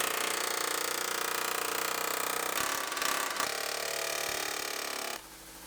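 Pneumatic air chisel hammering rapidly and steadily as it cuts out a car's sheet-metal inner body panel, with a few sharper knocks midway, stopping abruptly about five seconds in.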